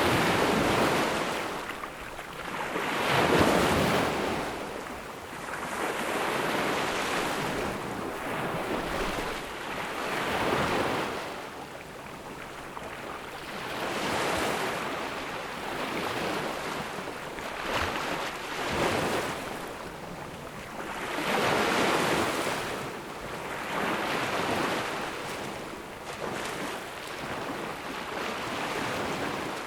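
Ocean waves breaking on a beach, each swell of surf rising and washing out every few seconds, the loudest about three seconds in.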